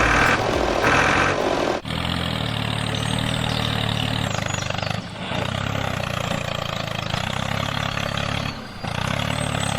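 Tractor engine running steadily at a low pitch, after a louder, higher-pitched start in the first couple of seconds. It breaks off briefly twice.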